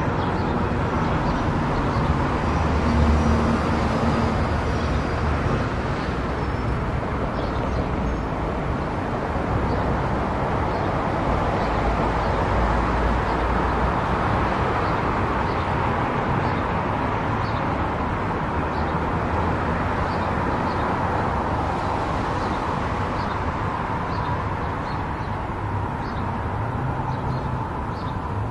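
Car cruising on a highway: steady tyre and road noise with a low engine hum.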